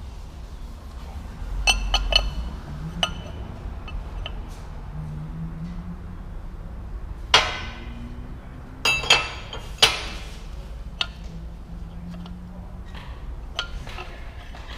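Metal tools and parts clinking and striking against metal: a few light clinks about two seconds in, then several sharp, ringing metallic strikes between about seven and ten seconds in, over a low steady hum.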